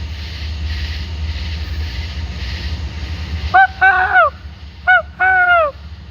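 A few geese honking in two short groups in the second half, each call arching and dropping in pitch at its end, over a steady low engine rumble.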